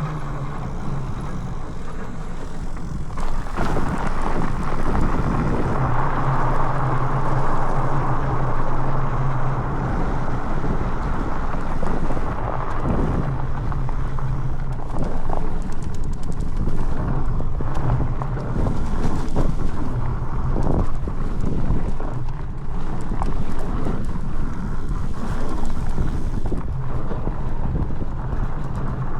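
Wind buffeting the microphone as a fat bike rides down a dirt trail, with the tyres rolling and frequent knocks and rattles from the bike over bumps.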